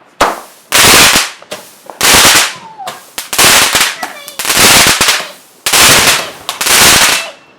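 A consumer aerial firework cake firing a rapid series of loud bursts, roughly one a second, each blast trailing off briefly before the next.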